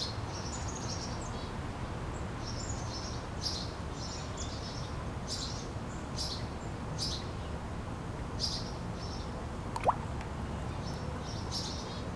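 Small birds chirping, short high calls repeating over and over, over a steady low background hum. About ten seconds in comes one short, sharp rising squeak.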